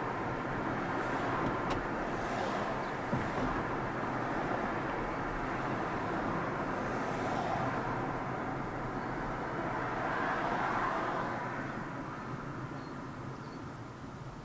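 Steady rushing road noise of a car driving, tyres on the road surface, which fades away over the last few seconds.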